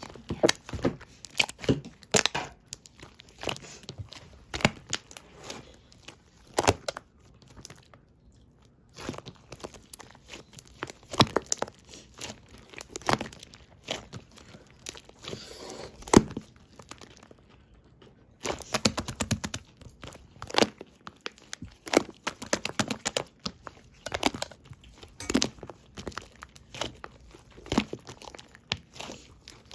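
Clear slime full of trapped air bubbles being squished and poked by hand, giving a dense run of irregular sharp pops and crackles, with a couple of short pauses.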